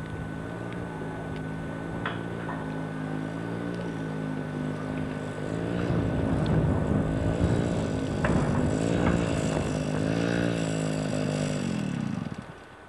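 Motorcycle engine running. It grows louder about halfway through, its pitch rising and falling with the throttle, then fades away near the end.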